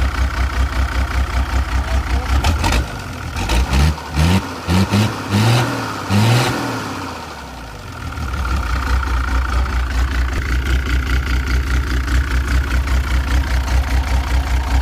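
Engine idling with an even pulsing beat, about four pulses a second. About three seconds in it is revved in five short, quick blips, each rising in pitch, then it settles back to the same idle.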